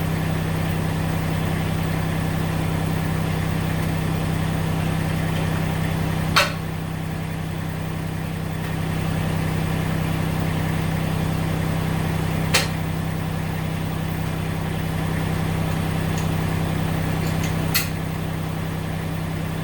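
Massey Ferguson GC1710 subcompact tractor's diesel engine idling steadily, with three sharp knocks a few seconds apart.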